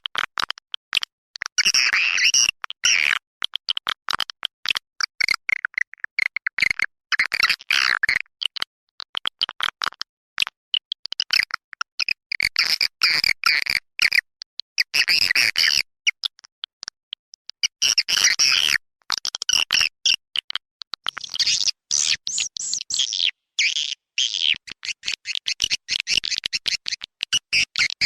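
Swiftlet calls on a lure-call recording used to draw birds into a swiftlet nesting house: dense bursts of high twittering chirps, each a second or two long, with rapid dry clicking between them.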